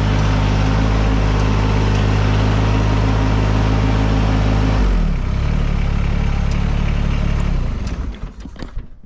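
An engine running steadily, throttled down about five seconds in, then shut off a few seconds later, leaving a few light knocks and clicks.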